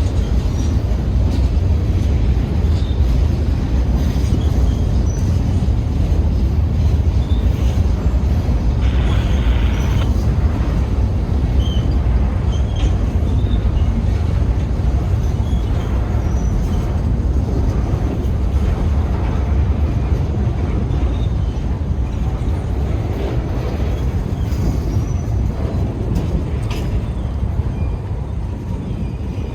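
Freight cars rolling past on the rails: a steady low rumble with faint, short wheel squeaks scattered through it.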